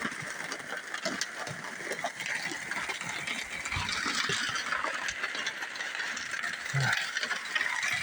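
A sled carrying a heavy dog being dragged over the ground: a continuous scraping rasp full of small clicks.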